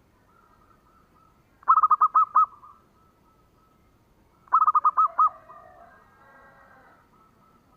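Zebra dove (perkutut) singing: two short phrases, each a quick run of six or seven cooing notes ending in a slightly drawn-out note, about three seconds apart. Fainter chirps from other birds follow the second phrase.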